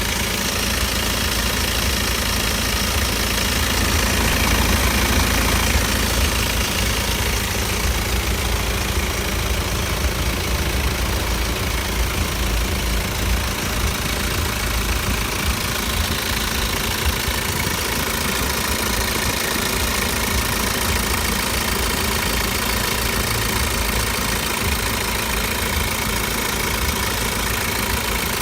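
BMW N47 2.0-litre four-cylinder turbodiesel in an E90 320d idling, its noise recorded to check for the timing chain rattle that N47 engines are known for.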